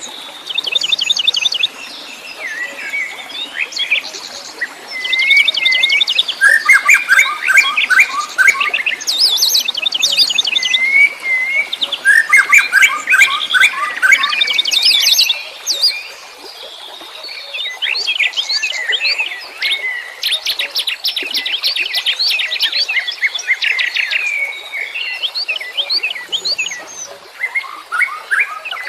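Several wild birds chirping and singing at once: overlapping fast trills and runs of quick, repeated chirps, with a brief lull about halfway through.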